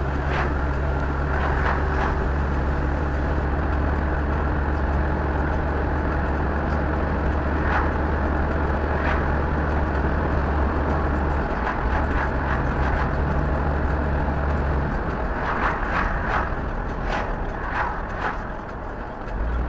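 Engine and road noise of a moving vehicle heard from inside the cabin: a steady low drone that shifts in pitch a couple of times and dips briefly near the end, with scattered light ticks.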